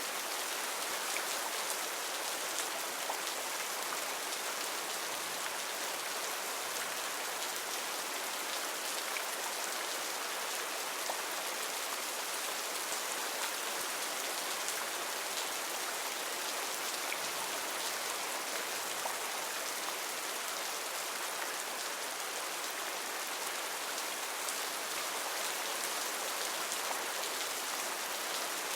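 Heavy rain falling steadily, a dense even hiss flecked with the ticks of individual drops.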